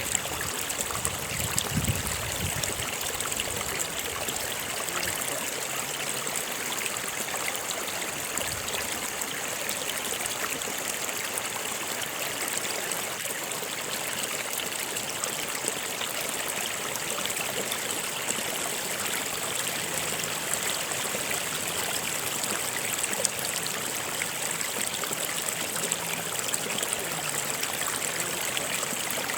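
A stream flowing steadily: a continuous rush and trickle of running water.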